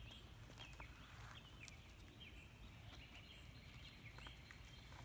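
Faint birds chirping: short, high notes repeated every fraction of a second over near silence.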